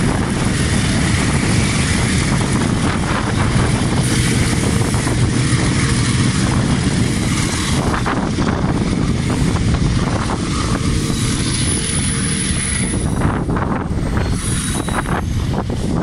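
Freight train of flatcars and container wagons rolling past on the rails, a loud steady noise with the diesel locomotive's engine drone, mixed with wind on the microphone. Scattered knocks from the wagons come in toward the end.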